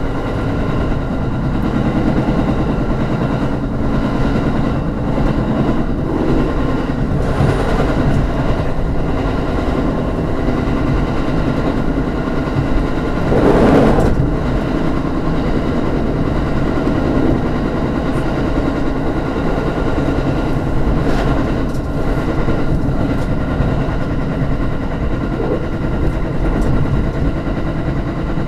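Electric commuter train running at speed, heard from inside the car: a steady rumble of wheels on rail with a steady hum over it. The rumble swells briefly about halfway through as the train crosses a short bridge.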